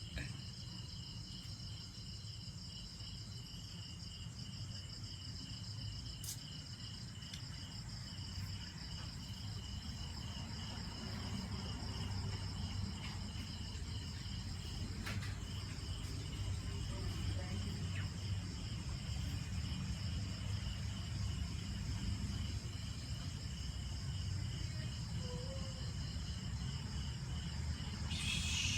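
Insects chirping in a steady, evenly pulsing high drone, over a low rumble, with a brief louder noise near the end.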